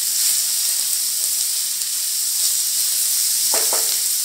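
Sliced onions and garlic cloves sizzling in oil in a nonstick frying pan, a steady hiss as they sauté to drive off their moisture.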